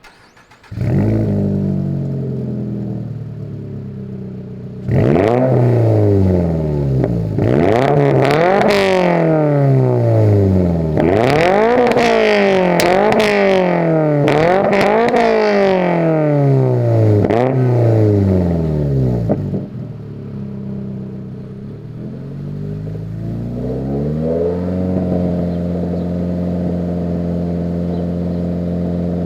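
2022 Toyota GR86/Subaru BRZ 2.4-litre FA24 flat-four running through an AWE Track Edition catback, a near straight-pipe exhaust with only a mid-pipe resonator. The revs climb and fall over and over, roughly every second and a half, for about fifteen seconds. They then drop away and settle into a steady drone held for the last few seconds.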